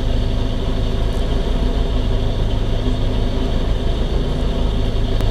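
1971 Honda N600's air-cooled 599 cc two-cylinder engine idling steadily, heard from inside the car's cabin.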